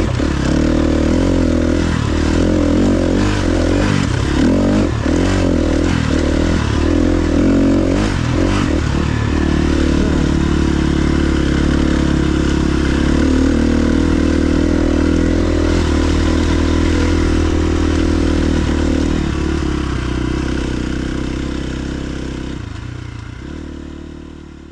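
KTM 350 XC-F dirt bike's single-cylinder four-stroke engine running under way, its pitch shifting with the throttle over the first several seconds amid some clatter, then holding steady, and fading away near the end.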